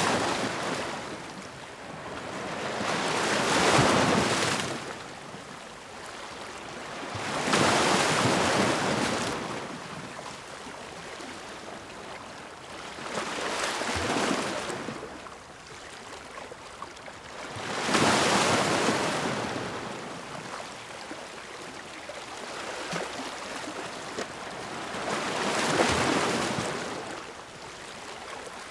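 Sea waves breaking against rocks, one surge after another. Each surge rises to a loud rush of water and then fades, and six come in turn at intervals of roughly four to eight seconds.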